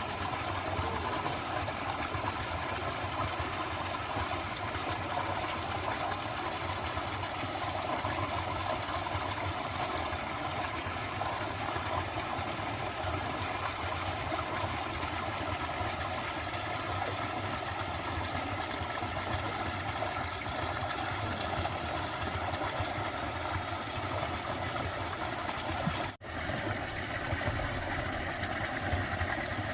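Dense, steady chorus of frogs with running water, a continuous pulsing wash of sound, broken by a momentary gap about 26 seconds in.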